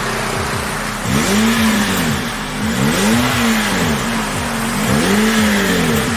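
Toyota Vios exhaust through an M7 Japan aftermarket muffler. The engine is revved up and let fall back three times in a row, roughly every two seconds, over a steady low idle.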